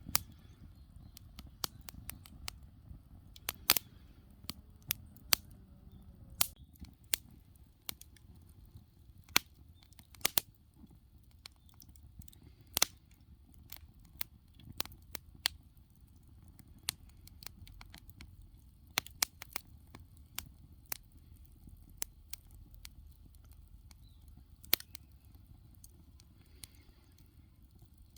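Wood fire crackling, with irregular sharp pops and snaps of varying loudness over a low steady rumble.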